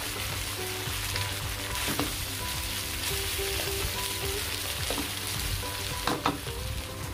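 Pork pieces and shrimp paste sizzling in a hot wok while being stirred with a wooden spatula, with a few knocks of the spatula against the pan. The shrimp paste is being sautéed with the browned pork, stirred so it doesn't burn.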